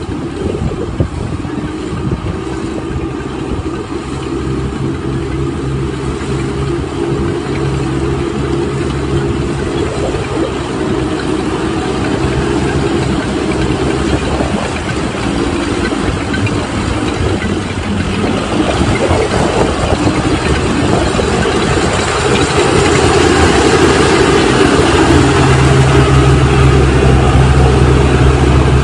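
Thaleethong combine harvester's diesel engine running steadily, growing louder about three-quarters of the way through.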